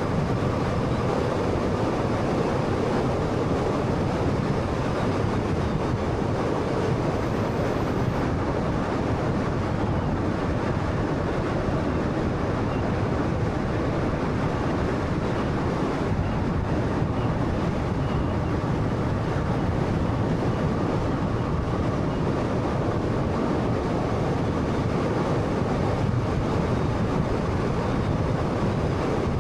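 Steady road noise of a moving 2013 Honda Fit with a 1300cc engine: tyre rumble and engine hum at an even cruising pace, with no gear changes or other distinct events.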